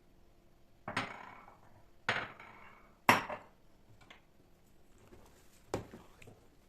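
Kitchenware clattering: three sharp knocks about a second apart, each ringing briefly, then a lighter knock near the end.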